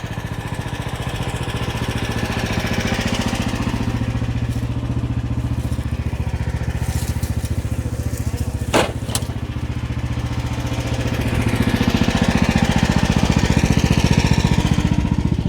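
QH13R mini excavator's diesel engine running steadily under hydraulic work. There is a single sharp knock about nine seconds in, and the engine gets louder for the last few seconds.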